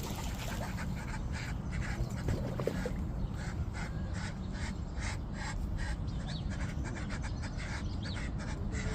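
Ducks quacking over and over in short calls, above a steady low background rumble.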